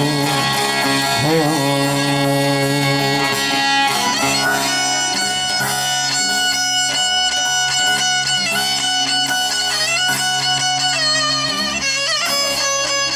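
Instrumental passage of a Turkish bozlak between sung lines: a steady low drone under a high, ornamented melody.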